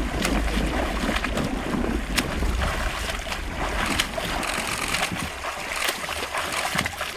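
Wind buffeting the microphone over water noise from a small boat, with a few sharp knocks; the low rumble of the wind eases about halfway through.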